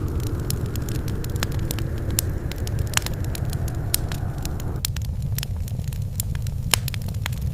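Wood fire crackling: a steady low roar of flames with frequent sharp pops and snaps. A layer of hiss drops out suddenly about five seconds in.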